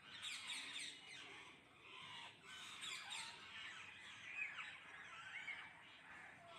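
A flock of parrots squawking, with many short shrill calls overlapping and sliding up and down in pitch as they feed on rice.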